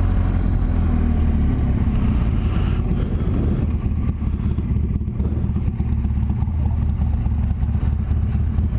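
BMW R1200GS Adventure's boxer-twin engine running, a steady low rumble with a faint engine hum that fades about two seconds in.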